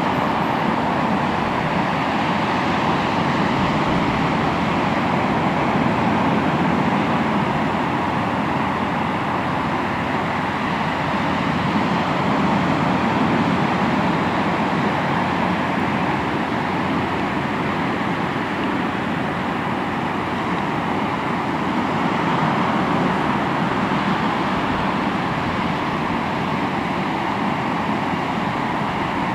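Ocean waves breaking and washing onto the shore in a steady rush of surf that rises and falls gently.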